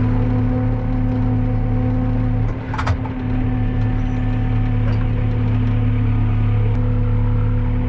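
Tractor engine running at a steady speed, with a single clunk about three seconds in.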